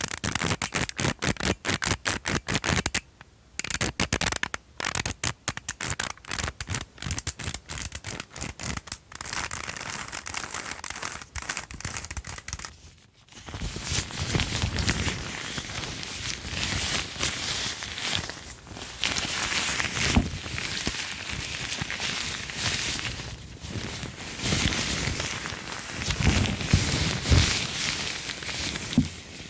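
ASMR tapping on a small object: rapid, close taps for about the first half, then after a short pause a continuous scratching, crinkling handling sound with a few louder strokes.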